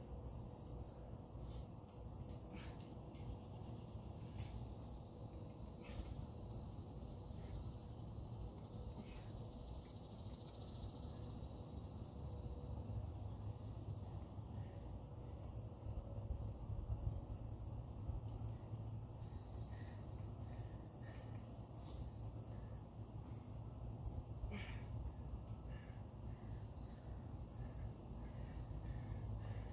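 Short high bird chirps repeated about every two seconds over a steady low rumble.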